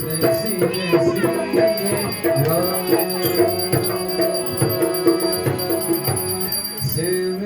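Hindu arti devotional music: steady held notes with rattling, jingling percussion and some singing.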